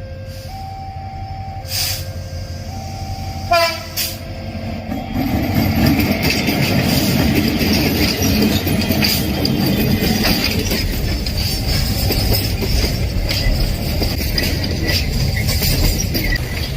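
A level-crossing warning alternates between two tones about once a second, and a short train horn sounds about three and a half seconds in. From about five seconds a train passes close by: a loud steady rumble of wheels on rail with a high wheel squeal over it.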